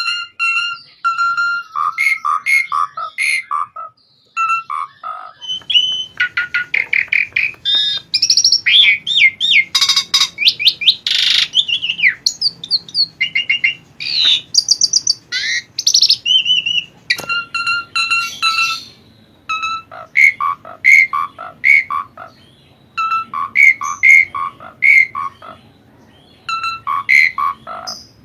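Asian pied starling (jalak suren) singing in full, a long varied song of loud whistles, chattering notes and quick rising and falling squeaky phrases, with a brief pause about four seconds in.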